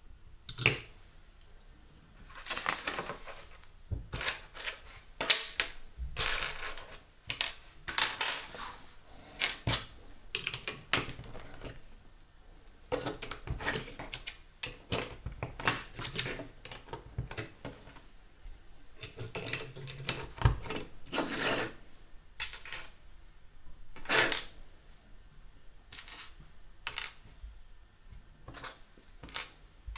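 Small plastic LEGO bricks clicking and clattering: pieces rummaged and tapped on a table between sharp clicks of parts being pressed together.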